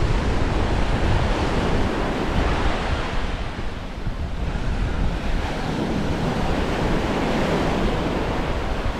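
Waves washing onto a sandy beach, with wind buffeting the microphone as a heavy low rumble. The wash eases briefly about four seconds in, then builds again.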